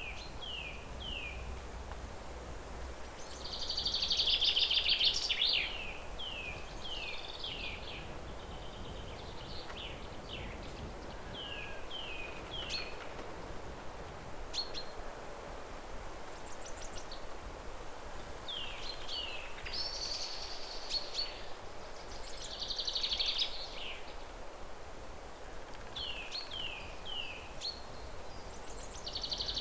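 Birds singing: short falling whistled notes, often in quick runs of three, repeated throughout, with a few louder rapid trills near the start, in the middle and near the end, over a steady background hiss.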